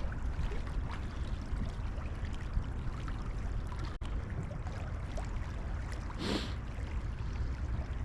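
Wind buffeting the microphone during a bike ride, a steady low rumble under a noisy rush, with a short hiss about six seconds in.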